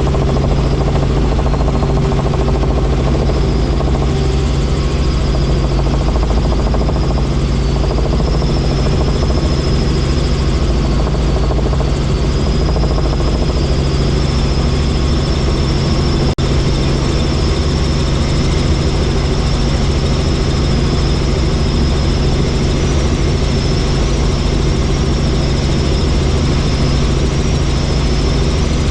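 Helicopter turbine and rotor running steadily in flight, a constant low drone under a high whine that drifts slightly in pitch, with one brief dropout about halfway through.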